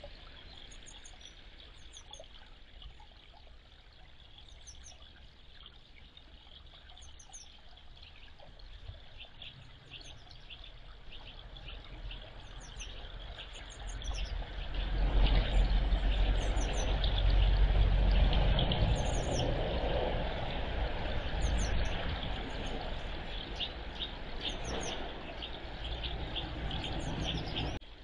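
A small bird's high, thin calls, short and repeated every second or so, over a low rumble that swells about halfway through, then slowly eases off and cuts out near the end.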